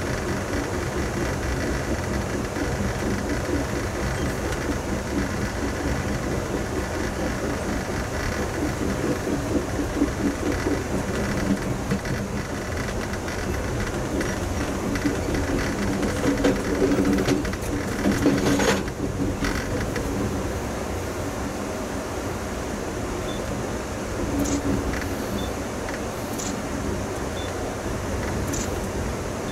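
Steady running noise of a moving Amtrak passenger train heard from inside the car: wheels on rail and body rumble, with a brief burst of clatter about two-thirds of the way through and a few lighter ticks near the end.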